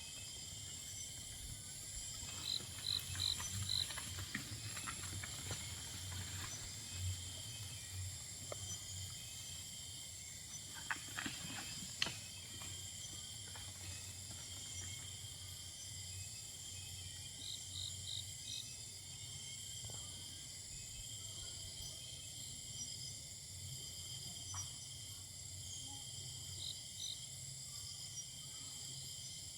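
Forest insect chorus: a steady, high-pitched drone of several layered tones. Four quick chirps come near the start, four more about halfway through and two near the end, with scattered soft clicks around the middle over a low rumble.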